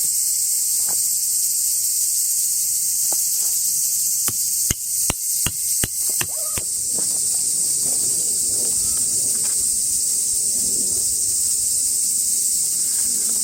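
Steady, high-pitched chorus of summer insects, with a quick run of about seven sharp knocks near the middle, followed by low rustling and handling noise.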